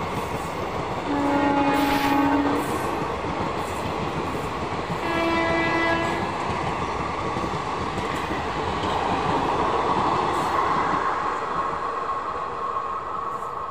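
Passenger train of chair-car coaches rolling past with a steady rumble and clatter of wheels on rails. A locomotive horn sounds twice: a long blast about a second in, then a shorter, slightly higher blast about five seconds in.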